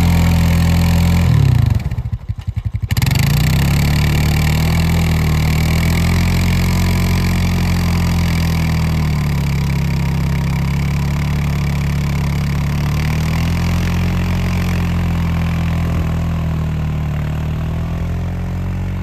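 Honda ATV engine running as it drives through snow, its revs rising and falling. About two seconds in the sound drops away briefly and comes back choppy before steadying.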